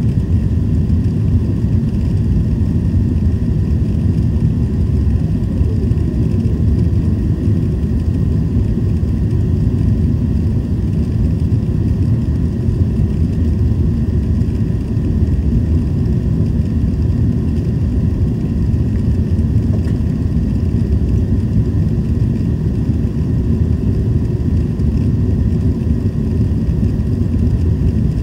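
Steady low rumble of jet engines and rushing air inside an airliner cabin.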